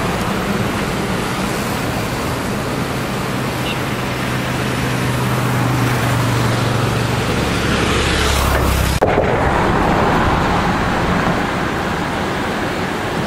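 Heavy wind rushing over the microphone of a moving motorcycle, with the engine's low hum underneath. The hum rises slightly in pitch, then drops out about nine seconds in while the wind noise carries on.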